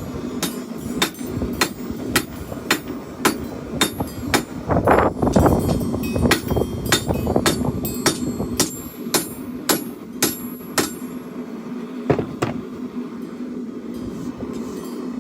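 Hand hammer striking hot steel on an anvil, drawing out a chopper blade over the anvil's edge: steady blows about two a second that thin out near the end. A propane forge burner runs steadily underneath.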